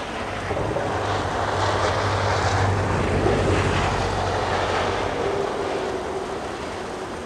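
A vehicle passing, its low hum and hissing noise swelling to a peak about three seconds in, then fading away.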